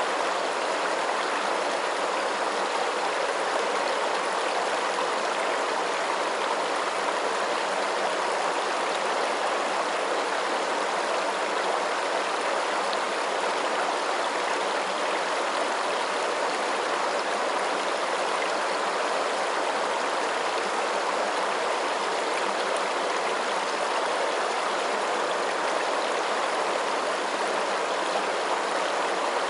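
Running water, a steady rushing stream, even and unchanging throughout.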